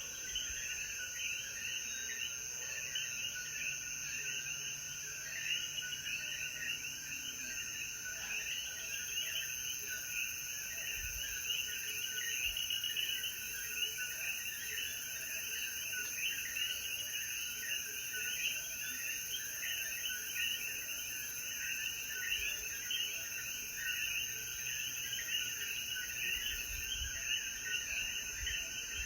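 Dense chorus of Puerto Rican coquí frogs, many calling over one another in short rising notes, over a steady high-pitched insect drone.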